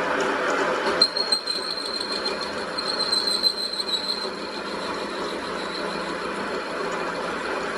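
Steady metalworking machinery noise with a thin high-pitched squeal from about a second in to about four seconds, and a few sharp knocks about a second in.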